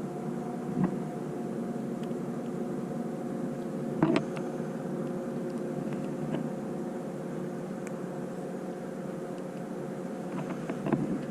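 A steady mechanical drone with several held tones, with a sharp knock about four seconds in and a few lighter taps near the end.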